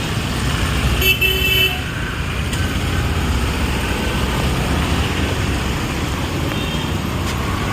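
Steady road traffic rumbling past, with one short vehicle horn toot about a second in.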